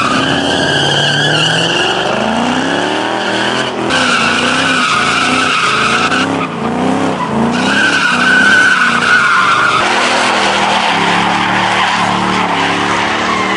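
Tyres squealing on a drifting vehicle, with its engine revving up and down repeatedly. The squeal stops briefly about four seconds in and again for about a second and a half past the middle, then resumes.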